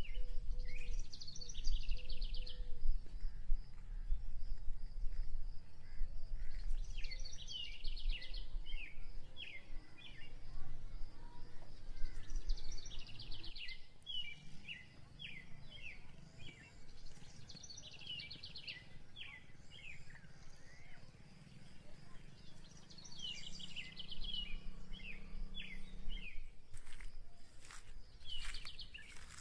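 Birds singing outdoors: the same trilling phrase comes back about every five to six seconds, with short chirps between, over a faint steady high buzz and a low rumble.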